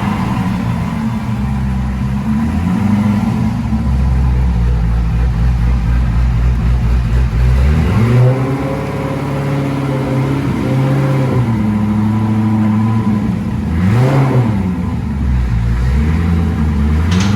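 Twin-turbocharged 7.0 L V8 of a 2006 Corvette Z06 running under load, its pitch climbing and dropping with the revs about halfway through and again near the end.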